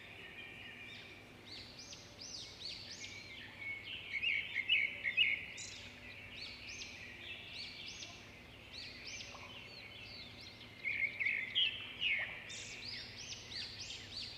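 Many small birds chirping and twittering together in a continuous, overlapping chatter, with louder bursts about four seconds in and again near the end.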